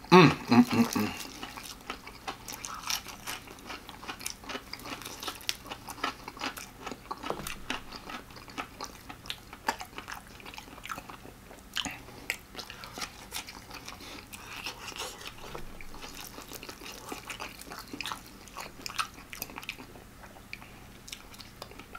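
Close-miked chewing and biting of extra crispy fried chicken, with many small crunches and crackles of the fried breading. There is a short voiced sound in the first second.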